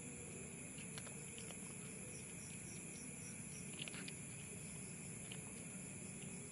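Cat eating, with small scattered chewing clicks, over a steady high insect drone and runs of quick, evenly spaced insect chirps, about four a second.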